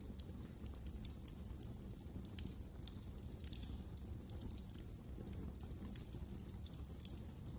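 Wood fire crackling in a fireplace: irregular small snaps and pops over a steady low rumble of the burning logs.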